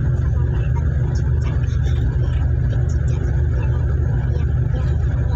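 Engines of a sea ferry running with a steady low rumble, heard on board.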